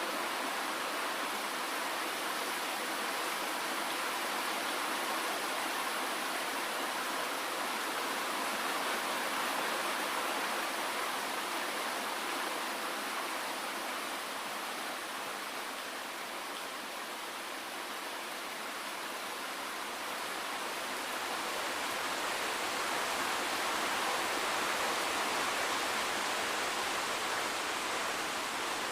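Steady rain falling, an even hiss with little low rumble, easing slightly about halfway through and then building again.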